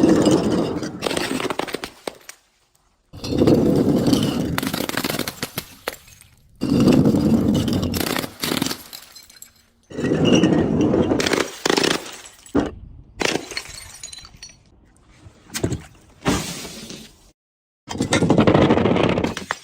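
Glass being crushed and shattering in a run of separate loud crunches, about six in all, each starting sharply and crackling away over a second or two, with abrupt cuts between them.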